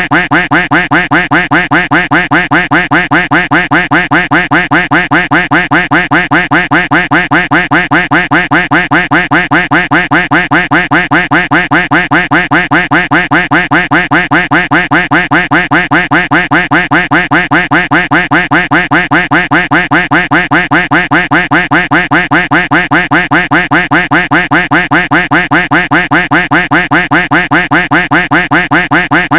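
A duck quack sound effect looped back to back, an even run of about four to five quacks a second without a pause.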